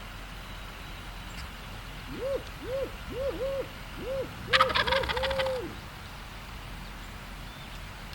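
A person's owl-hoot locator call: a rhythmic phrase of about eight hoots ending on a longer drawn-out note. About halfway through, a wild turkey gobble answers with a rattling burst, the loudest sound.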